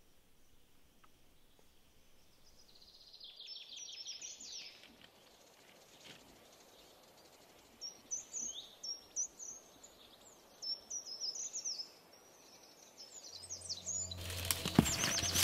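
Wild birds calling: a short run of quick, high, descending chirps, then a string of sharp high calls about eight seconds in. Near the end a low steady drone and sharp cracks come in, louder than the birds.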